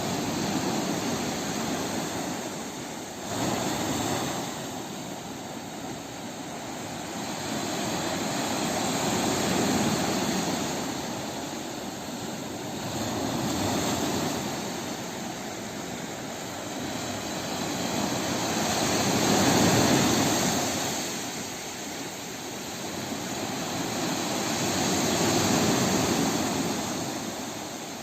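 Sea waves washing in and drawing back, the surf noise swelling and fading every few seconds, with one wave breaking more sharply a few seconds in.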